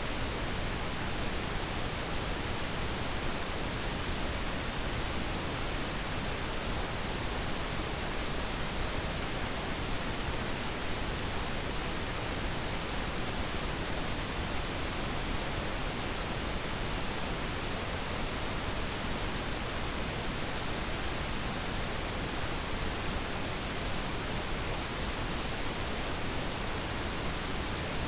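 Steady synthetic pink noise: an even, unchanging hiss across the whole range, with no tones or events.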